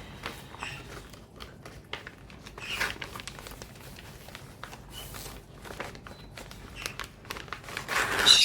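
Plastic packaging crinkling and rustling in irregular handling noises as a cross stitch kit is pulled out of its bag, with a louder rustle near the end.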